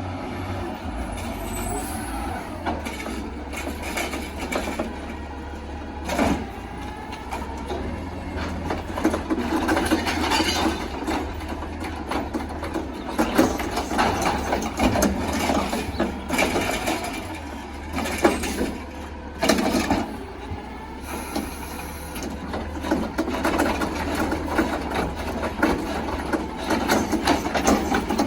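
Automated side-loader garbage truck working: the engine runs steadily under a rising and falling mechanical load, with several sharp clanks and knocks from the lifting arm and cans, and an air hiss a little past the middle.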